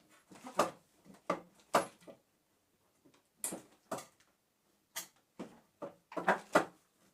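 Irregular knocks and thumps from a bed being handled and arranged, about a dozen sharp blows with uneven gaps, some in quick pairs.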